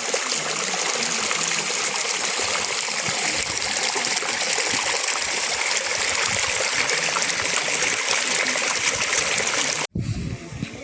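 Hot spring water flowing steadily. It cuts off suddenly near the end.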